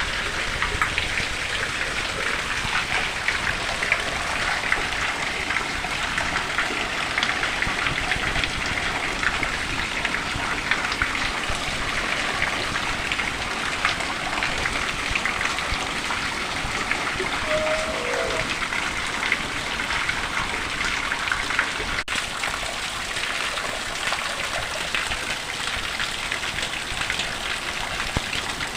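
Steady rain falling and hitting surfaces: a dense, even hiss made of countless small drop impacts.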